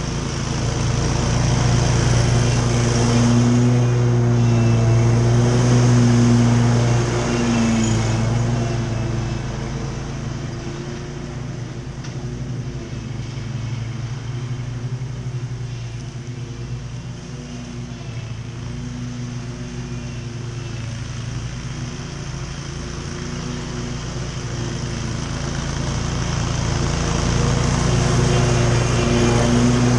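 Riding lawn mower's engine running steadily while mowing grass. Its drone swells louder for several seconds near the start and again near the end.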